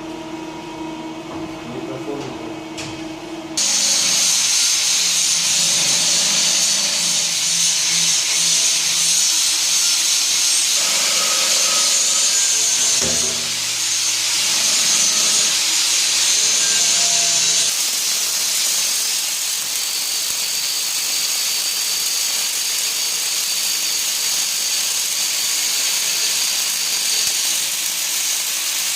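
Welding on a ZF 6HP26 automatic transmission's torque converter: a steady hiss that starts suddenly about three and a half seconds in and carries on without a break.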